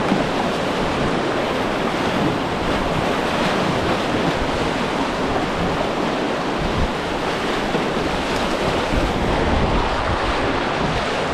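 Steady rush of moving whitewater in a river, with wind buffeting the microphone.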